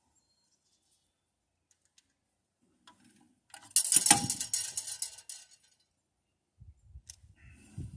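Small metal objects clattering and jangling for about a second and a half, starting about four seconds in after near silence. A low rumble begins near the end.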